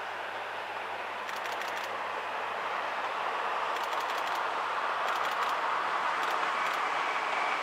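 Two-car diesel railcar running along the line, its engine and wheel noise growing steadily louder as it approaches, with several short clusters of faint rapid clicks.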